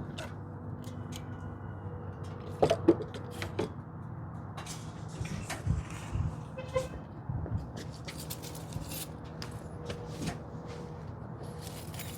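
Scattered light clicks and knocks of hands working under the open hood at the distributor cap and spark plug wires, over a steady low hum.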